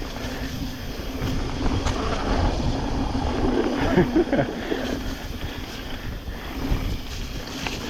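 Wind noise and rumble on an action camera during a mountain bike descent: tyres on a wet dirt singletrack and the bike rattling over the ground.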